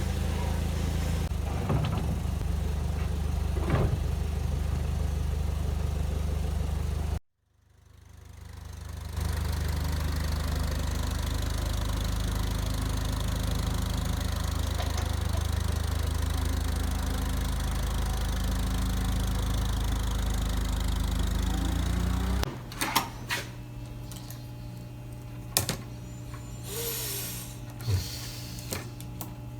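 A steady low mechanical hum, cut off abruptly about seven seconds in and fading back up a second or two later, that stops for good about three-quarters of the way through. After it, scattered light clicks and knocks of small metal tools being handled.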